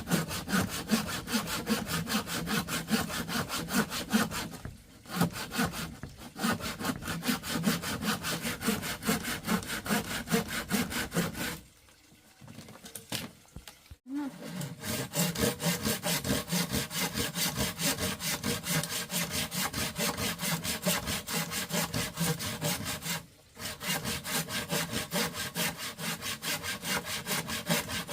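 A handsaw cutting wood in quick, even back-and-forth strokes. It stops briefly a few times, with the longest pause, about two seconds, near the middle.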